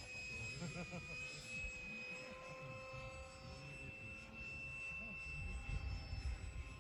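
Radio-controlled F-4 Phantom model jet in flight, giving a steady high-pitched whine that drifts slightly in pitch, with low wind rumble on the microphone.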